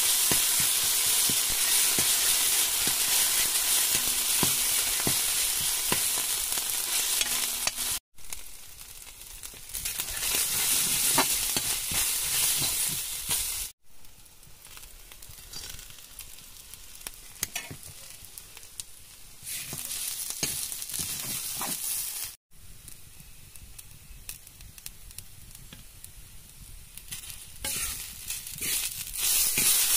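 Sliced onions sizzling in hot oil in a steel wok while a metal spatula stirs and scrapes. After a few cuts the sizzle falls to quieter stretches. Near the end it comes back loud as kinema and chopped tomato are stirred in.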